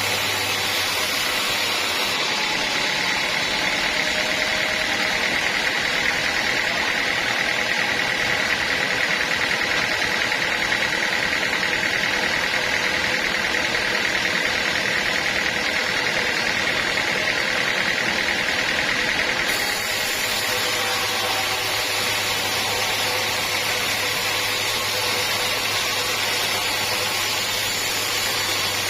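Sawmill machinery running steadily, with a continuous noisy drone. A higher whine comes in about two seconds in and drops away about two-thirds of the way through.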